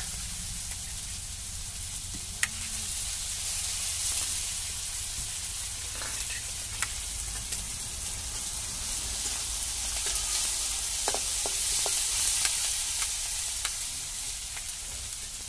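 Chopped onion, garlic and green chillies sizzling in hot oil in a kadhai, a steady hiss with a few sharp clicks, as the onion is roasted until it browns.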